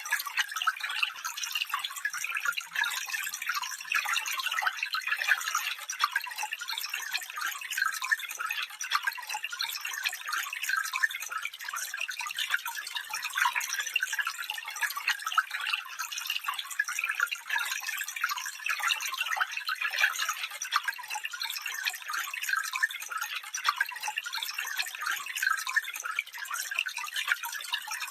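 Stream water running over stones: a steady, bright babbling and trickling with no low rumble.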